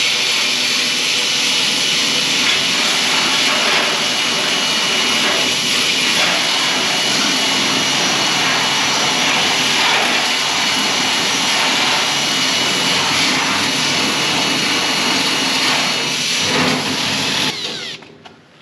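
Electric drill fitted with an abrasive disc, running and grinding metal as a steady, loud grinding noise with a motor whine, which cuts off near the end.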